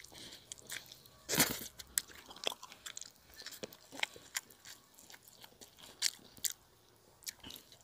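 Close-miked chewing of tender pork shoulder rib meat: a run of short wet smacks and mouth clicks, the loudest about one and a half seconds in.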